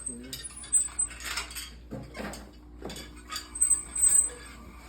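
Small metal hardware clinking and rattling in irregular bursts, several clinks ringing briefly with a high tone.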